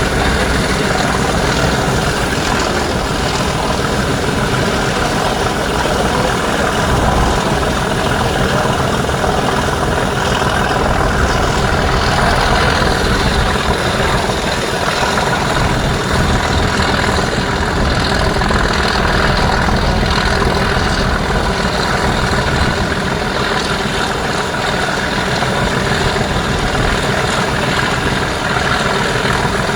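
British Rail Class 37 diesel locomotive's English Electric V12 engine running loudly and steadily, with a deep throb.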